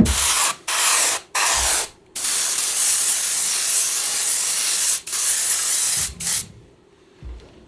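Compressed-air spray gun hissing in a series of bursts: three short sprays, a long spray of about three seconds, then two more short ones, stopping about six and a half seconds in.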